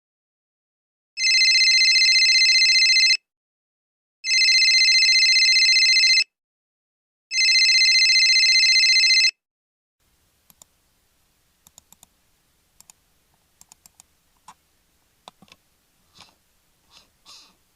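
A telephone rings three times, each ring about two seconds long with about a second between. It is followed by scattered, irregular light clicks like keys being typed.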